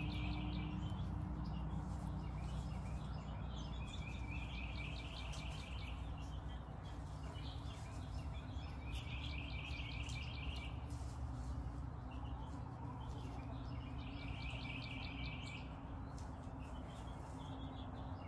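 A small songbird singing a short, rapid trill about every five to six seconds, over a steady low hum.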